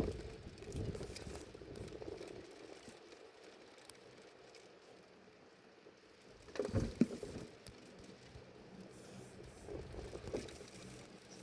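Strong wind gusting against the microphone, a low buffeting that swells and fades, with the strongest gust about seven seconds in.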